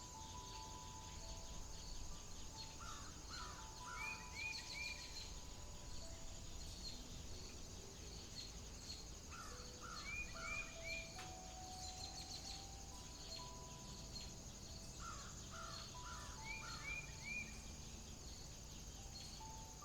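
Outdoor nature ambience: a songbird repeats the same short phrase of about six quick notes roughly every six to seven seconds, over a steady high insect drone.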